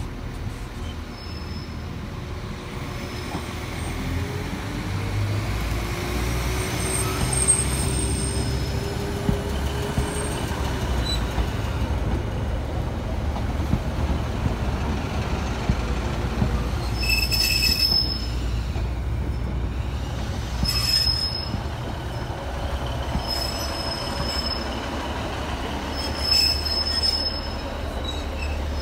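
Northern diesel multiple unit running along the platform: a steady low engine rumble with a whine that climbs over the first several seconds, then short high-pitched wheel squeals that recur from about halfway through.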